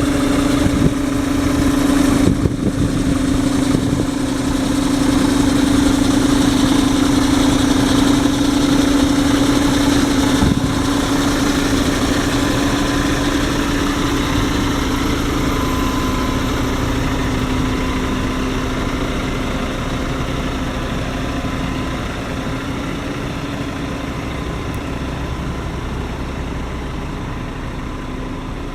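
Scania P400 truck's diesel engine idling steadily, slowly getting a little quieter.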